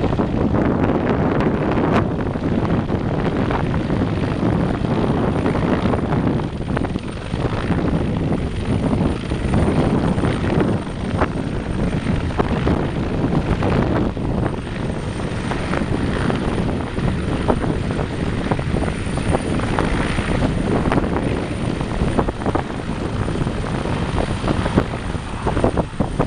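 Bell CH-146 Griffon military helicopter flying close by, giving a loud, steady noise of rotor and engine throughout.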